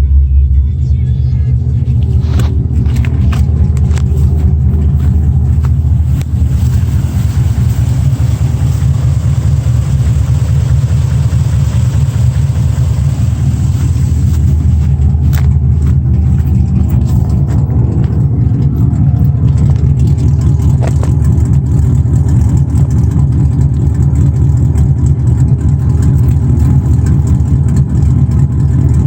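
5.3-litre LS V8 running loud and low and steady in a 1986 GMC C10 pickup, with its engine note sliding down in pitch about two-thirds of the way through, and a few sharp clicks.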